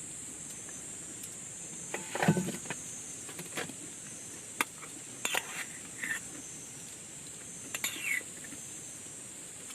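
A steady, high-pitched insect buzz, like crickets or cicadas, runs throughout. Over it come a handful of light clicks and clatters of camp gear being handled, the loudest about two seconds in and a cluster near the end.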